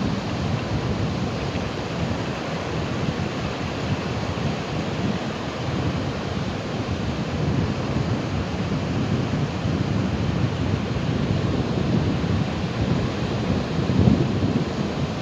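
Ocean surf washing steadily with a dense, low-heavy wash of noise, one wave building louder near the end.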